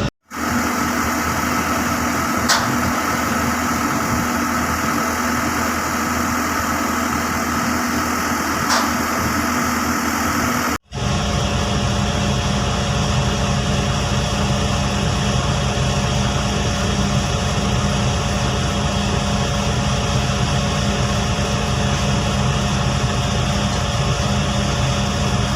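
Heavy-equipment engine running steadily at idle, a constant machine hum. It cuts out for an instant about eleven seconds in and comes back with a deeper, stronger low hum.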